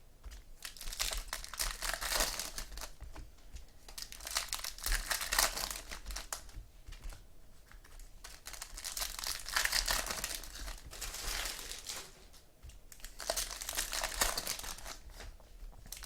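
Foil trading-card pack wrappers being torn open and crinkled, in several crackling bursts separated by short pauses.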